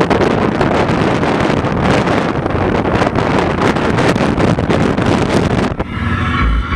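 Loud wind rushing and buffeting the microphone, with road noise from a vehicle moving at speed. It cuts off abruptly near the end and gives way to music with heavy pulsing bass.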